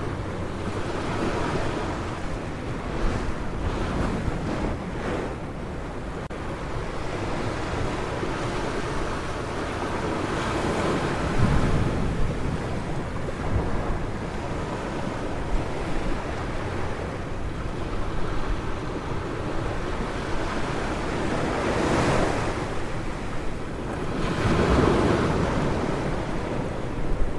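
Sea waves breaking and washing up on a beach, surging louder every several seconds, with wind on the microphone.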